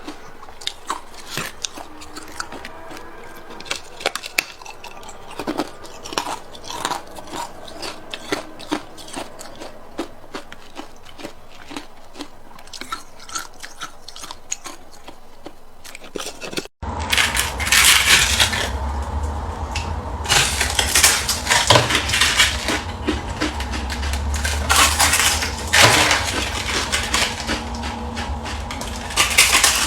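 Ice being bitten and chewed close to the microphone: sharp cracks and crunching. About seventeen seconds in there is a brief cut, after which the crunching is louder and denser over a low hum.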